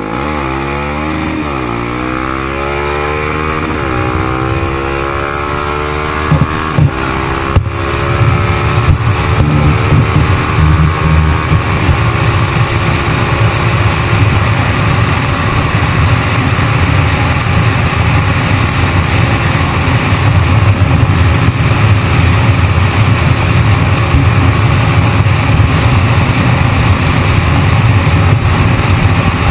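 Motorcycle engine revving: its pitch rises and falls a few times over the first seconds, then it runs louder and steadier from about eight seconds in.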